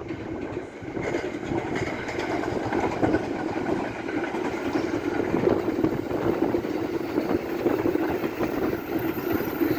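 A train running past on the tracks close by: a steady rumble of wheels on rail that swells up in the first second and then holds.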